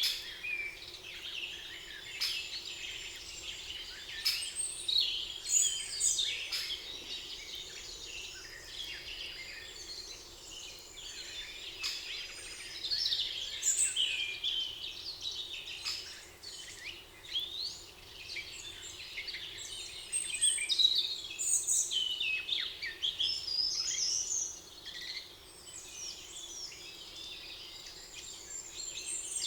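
Many birds singing at once in a forest: a continuous chorus of overlapping high chirps, trills and short whistled phrases.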